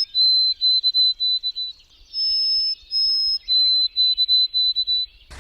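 A songbird singing clear whistled phrases twice: two long high whistles, then a run of shorter, slightly lower notes.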